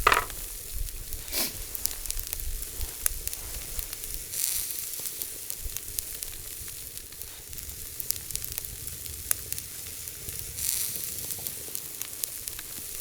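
Steak sizzling in a frying pan over a campfire: a steady sizzle that swells a few times. There is a short falling swish right at the start.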